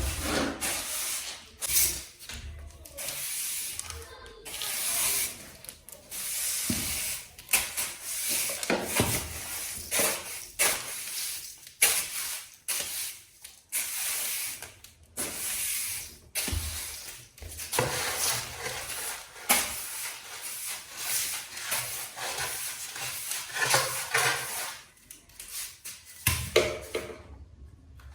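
A series of short scraping noises, roughly one a second, with brief quiet gaps between them.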